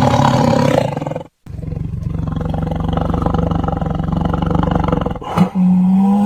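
Tiger roaring: a loud roar of about a second, then after a short break a long, rough, rumbling growl of nearly four seconds. Near the end a smoother, steady drawn-out call starts.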